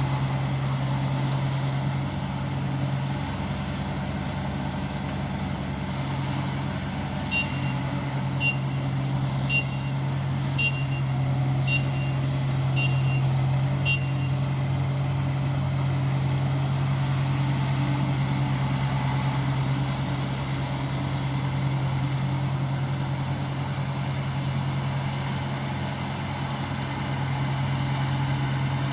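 ISEKI rice harvester's engine running steadily. About a third of the way in, seven short high beeps sound about a second apart, like a machine's warning or reversing alarm.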